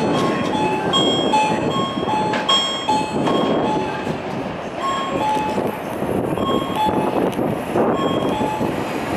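Tokyo Metro 03 series electric train pulling into the station, its running noise growing as it nears. Over it, a two-note electronic chime repeats about every half second.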